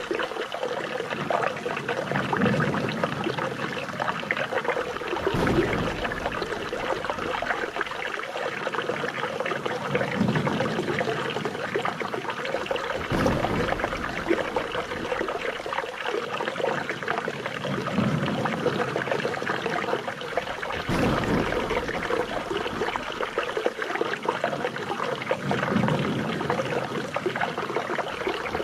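Flowing, trickling water: a steady splashing rush, with a low swell that comes back about every eight seconds.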